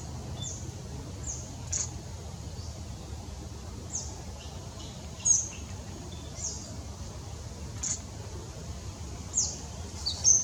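Eastern yellow robin calling: short, very high-pitched notes, each dropping quickly in pitch, repeated irregularly about once a second over a steady low rumble.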